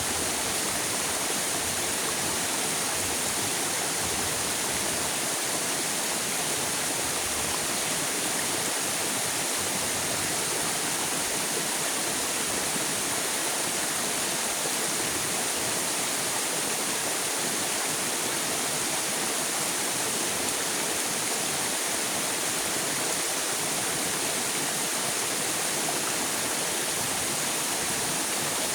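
River water rushing steadily, an even continuous hiss with no breaks.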